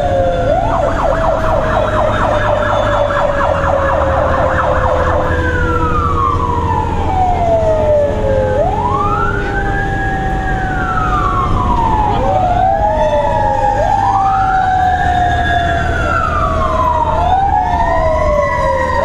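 Fire engine siren: a rapid yelp for the first few seconds, then switching to a slow rising and falling wail. A second, lower siren tone slides slowly downward underneath, over the steady low rumble of the engine.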